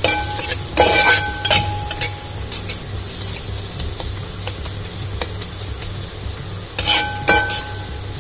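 Onion and spice masala sizzling in oil in a metal pan while a spatula stirs and scrapes it. The spatula clinks against the pan, which rings briefly, a few times near the start and again about seven seconds in. The spice powders are being roasted until their raw smell goes.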